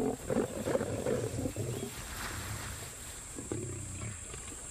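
Male lion giving low, uneven warning growls, heaviest in the first two seconds, with another growl about three and a half seconds in.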